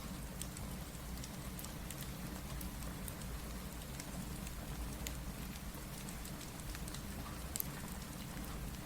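Steady rain with a low rumble under it, mixed with the scattered small crackles and pops of a wood fire; one sharper pop comes about three-quarters of the way through.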